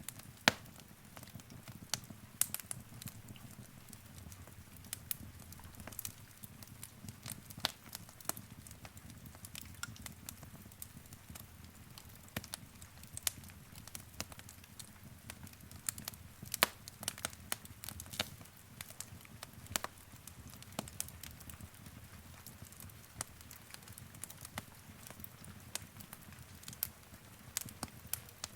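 Wood fire in a fireplace crackling, with irregular sharp pops and snaps every fraction of a second to a couple of seconds over a low, steady rumble of burning.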